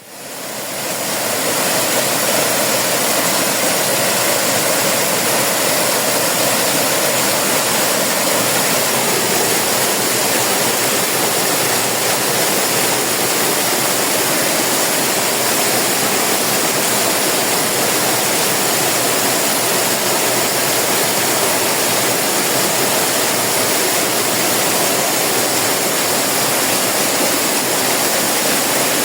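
Waterfall: water pouring and splashing in a steady, unbroken rush, fading in over the first second or so.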